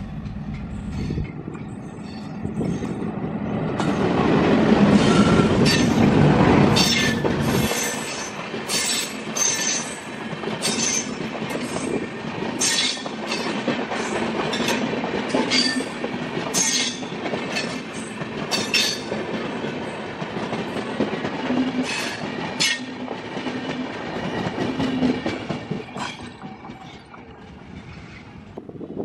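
Indian Railways diesel locomotive passing close, with a loud engine rumble that peaks a few seconds in. Its train of coaches follows, wheels clattering on the rails with many sharp clicks. The sound fades near the end as the last coach moves away.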